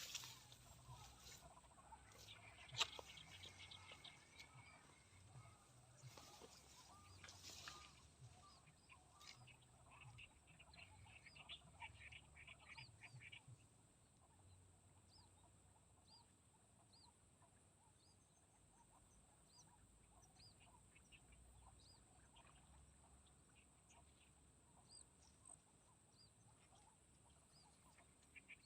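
Near-silent outdoor quiet with faint, small high chirping calls from wild animals, which settle into a regular chirp about once a second in the second half. A single sharp click about three seconds in.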